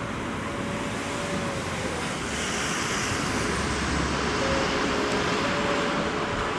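JR West electric commuter train approaching along the track, its running noise slowly growing louder, with a faint steady whine.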